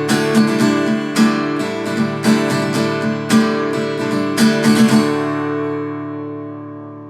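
Background music: an acoustic guitar strummed in a steady rhythm, ending on a chord about five seconds in that rings on and fades away.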